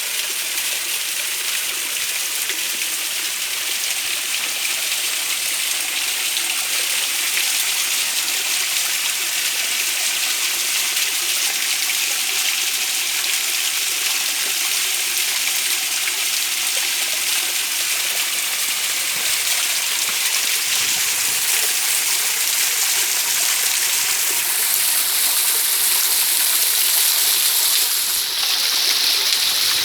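Stream water running steadily, an even hiss strongest in the high range. About six seconds before the end a louder, high-pitched steady sound joins in and shifts lower in pitch a couple of seconds later.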